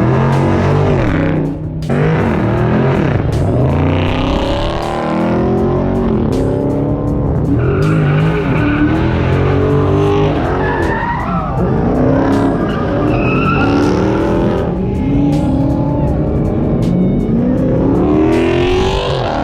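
A car doing a burnout: the engine revving hard again and again, pitch climbing and falling, over the steady noise of spinning, squealing tires.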